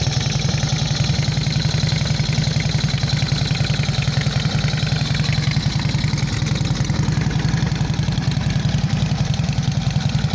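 Indian Chief motorcycle's V-twin engine idling steadily with an even, rapid pulse.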